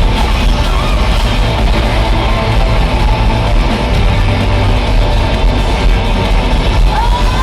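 Live rock band playing loud, distorted electric guitars over bass and drums, recorded from the arena crowd on a phone, with the sound heavy and boomy in the low end. Near the end a high, rising sung or yelled note cuts through.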